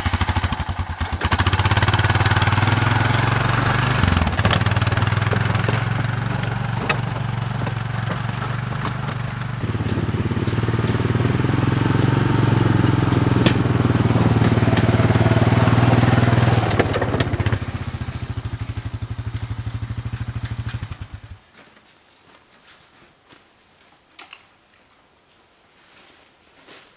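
Four-wheeler ATV engine running just after starting: a chugging idle at first, then louder and steadier under throttle, back to a chugging idle, and it cuts off abruptly about 21 seconds in. A few faint clicks follow.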